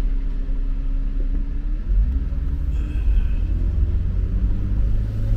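Car driving in city traffic, heard from inside the car: a steady low road and engine rumble, with the engine note rising as it speeds up about two seconds in. A faint brief high squeal comes about three seconds in.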